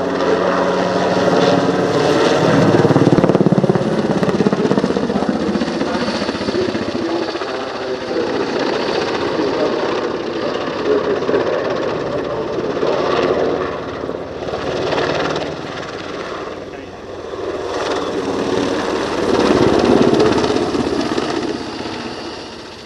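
NH90 twin-engine military helicopter in display flight, its rotor and engines running continuously. The sound swells loudest a couple of seconds in and again near twenty seconds, dipping briefly between.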